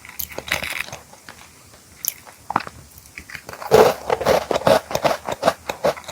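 Close-miked crunchy snack being eaten: a few crisp crunches early on, then a loud bite a bit past halfway, followed by steady crunchy chewing at about three to four chews a second.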